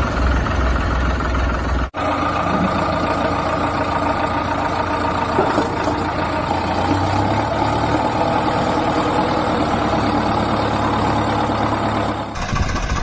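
Engine running steadily, with abrupt cuts where the sound changes about two seconds in and again near the end.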